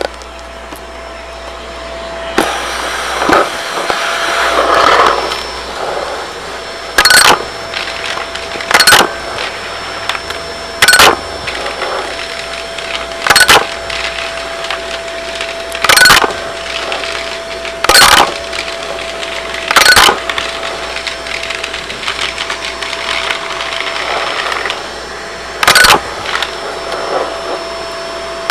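Shark vacuum cleaner running while sucking up pennies: a sharp metallic clatter each time a coin is pulled up the wand, roughly once every two seconds, over the vacuum's steady running noise and a faint motor whine.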